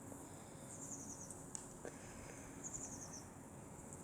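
Faint outdoor ambience with a high-pitched chirping trill, a quick series of about six notes stepping slightly down in pitch, heard twice. A small click about a second and a half in.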